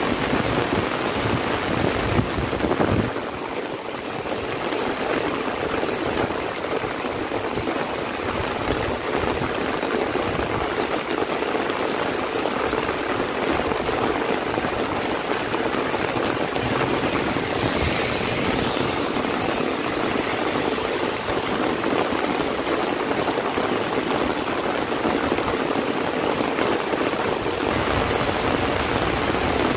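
Heavy rain falling steadily, with the rush of running rainwater. A low rumble in the first few seconds drops away about three seconds in.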